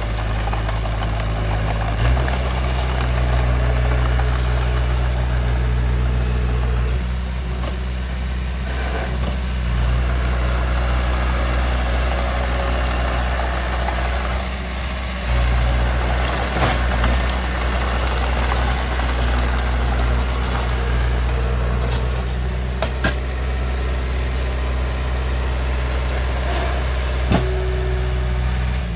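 Heavy diesel engine running steadily, its note shifting about two seconds in and again about halfway through, with a few short metallic knocks in the second half.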